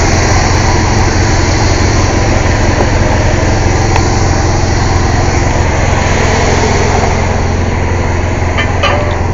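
Air compressor running steadily and loudly, a constant low engine-like drone over a broad hiss, with a few faint clicks near the end.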